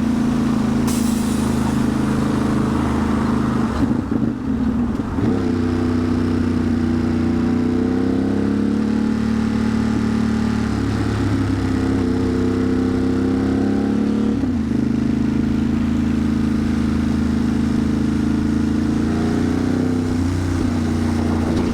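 Ducati Monster's L-twin engine running while the motorcycle is ridden, its pitch rising and falling with the throttle, with a brief dip about four seconds in and another near fifteen seconds.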